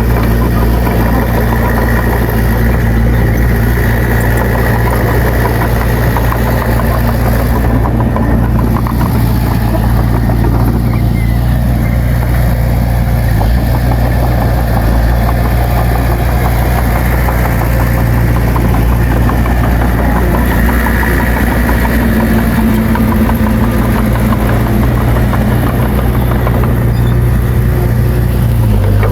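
Bulldozer's diesel engine running steadily, a low, even drone.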